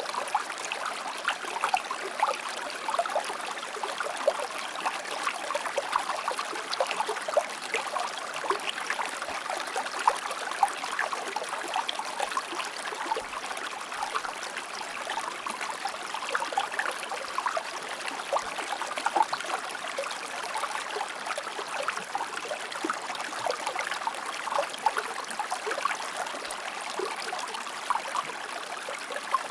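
Shallow river or stream flowing over rocks, with steady rushing water and many small splashes and trickles.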